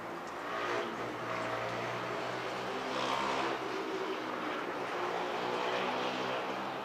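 A vehicle's steady pitched drone with a mechanical hum, growing louder about half a second in.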